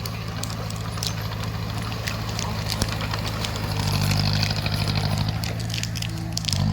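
Bulldozer diesel engine running steadily under load, swelling louder for about a second around four seconds in, with scattered sharp clicks and cracks over it.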